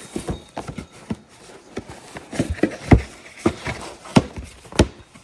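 Irregular knocks, clunks and rattles of a box of small electrical parts being opened and rummaged through by hand; the sharpest knock comes about three seconds in.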